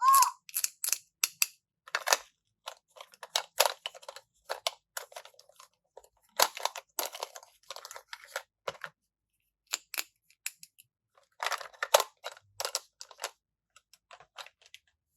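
Plastic packaging crinkling and crackling as it is handled and opened, in irregular bursts of sharp crackles that thin out near the end.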